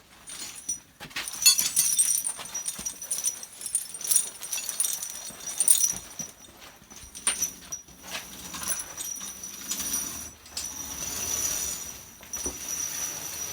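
Studded steel tractor tire chains rattling and clinking as they are dragged and handled, with irregular metallic jingles and clanks.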